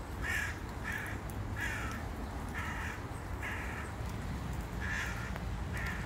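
A bird calling over and over: seven short calls at uneven gaps of about half a second to a second and a half, over a steady low rumble.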